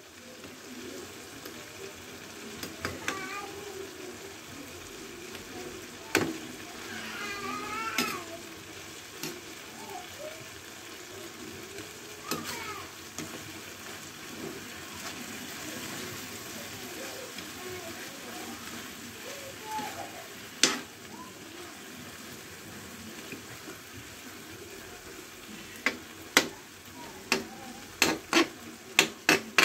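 Chicken pieces and tomatoes sizzling in a metal wok while a metal ladle stirs them, with scattered sharp clinks of the ladle against the wok. A quick run of clinks comes near the end.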